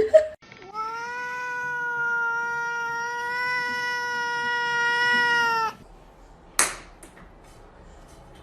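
A cat giving one long, steady yowl of about five seconds that cuts off suddenly, followed by a sharp click.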